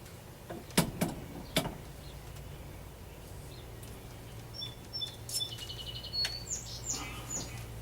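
Three sharp clinks about a second in, as parts are handled on the workbench. Then, in the second half, a small bird chirps repeatedly in quick high notes.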